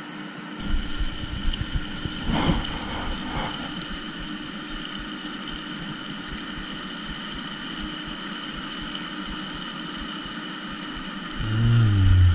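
A steady mechanical whirring hum with low rumbling underneath and a few light knocks. Near the end there is a brief, louder, low vocal sound.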